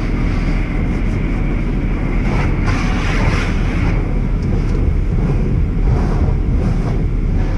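Steady low rumble with a hiss, heard from inside a car at the entrance of a tunnel car wash: the car idling and the wash machinery running.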